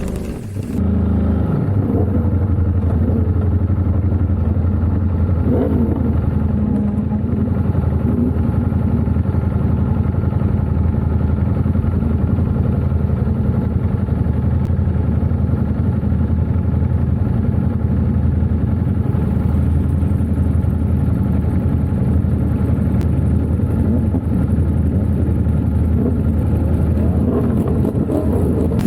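A racing superbike's engine running hard under race load, heard from an onboard camera, with its pitch shifting with throttle and gear changes. The sound dips briefly about half a second in, then runs on loud and steady.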